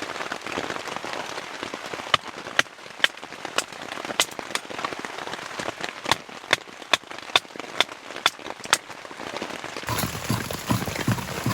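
Steady rain falling, with a string of sharp, separate pops or taps from about two seconds in to about nine seconds. Near the end the sound changes abruptly to a different, lower-pitched texture.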